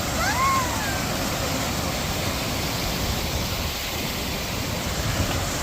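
Steady rushing of a stream or waterfall, a constant even noise. Near the start there is one short high call that rises and then falls.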